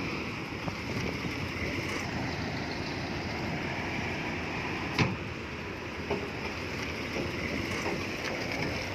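Heavy earthmoving machinery running steadily, with a sharp clank about five seconds in and a few lighter knocks.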